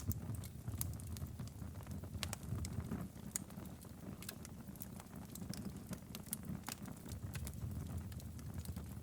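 Fireplace fire crackling, with irregular sharp pops scattered over a steady low rumble.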